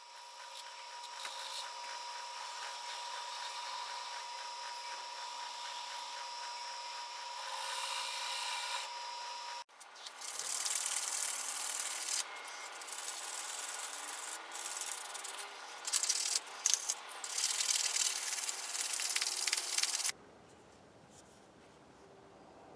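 Rubbing and sanding on the finished knife's handle and fittings, in two cut-together stretches: first a steady scrubbing with a faint steady tone under it, then louder, uneven rubbing strokes that stop abruptly about 20 seconds in.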